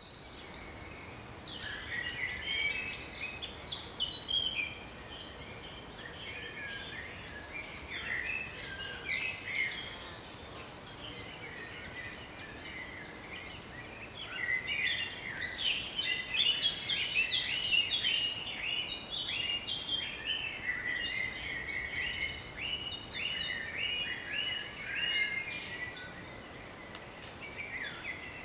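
Several songbirds singing together in quick chirps and trills, over a faint steady background hiss.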